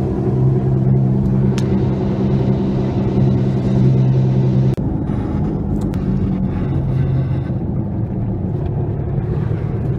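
Car engine running with a steady low hum, heard from inside the car, with a sudden break a little under halfway through.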